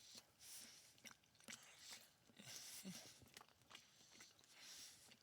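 Faint close-up chewing of stuffed cheesy bread: soft crunches of the crust and small wet mouth clicks scattered throughout.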